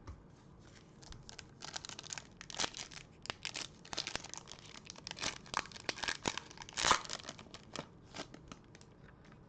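A trading-card pack wrapper being torn open and crinkled by hand: a run of sharp crackles, loudest about seven seconds in.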